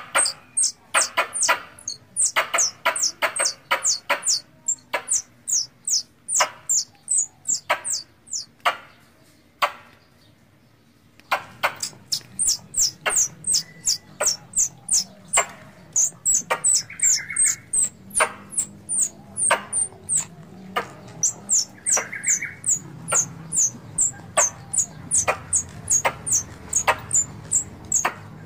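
Squirrel calls: a long run of sharp, high chips, each a quick downward-sliding note, repeated two to three times a second. The calls break off for about two seconds near the middle, then resume over a faint low hum.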